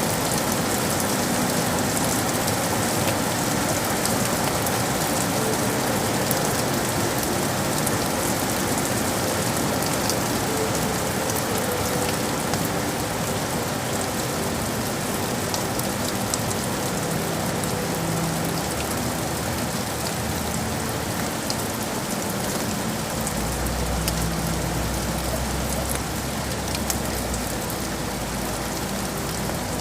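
Steady rain falling on city surfaces: an even hiss of rain with faint hum underneath. A low rumble comes in about three quarters of the way through.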